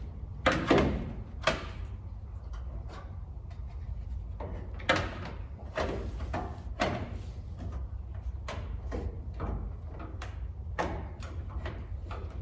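Irregular clicks and knocks of plastic headlight bezels being handled and pressed into place on a truck's front end, over a steady low hum.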